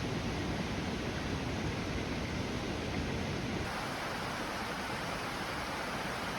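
Steady rushing of falling water, an even noise with no breaks. A little over halfway through, the tone shifts slightly and then holds steady.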